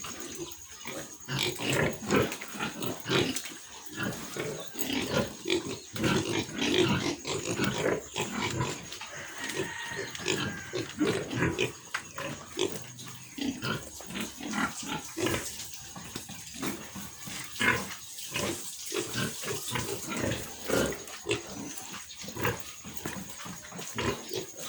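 Piglets grunting and squealing, a dense run of short calls one after another, some of them high and shrill.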